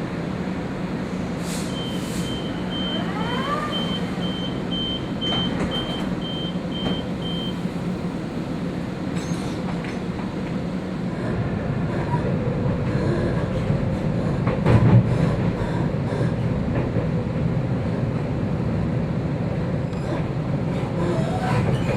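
Sydney Trains electric suburban train running on the rails: a steady rumble with scattered clicks that grows louder about halfway through, and one louder thump later on. A run of short, high beeps sounds near the start.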